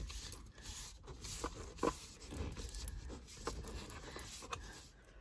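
Steering wheel cover being stretched and worked onto a car steering wheel: irregular rubbing and short squeaks with scattered clicks.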